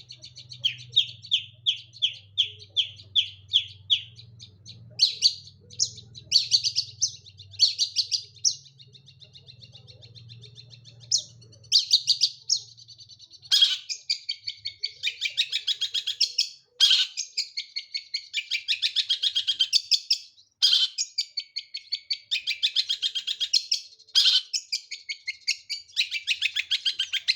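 Long-tailed shrike singing without pause: first a series of high repeated notes, about two to three a second, then dense, chattering runs of rapid notes. A faint low hum lies underneath during the first half and stops partway through.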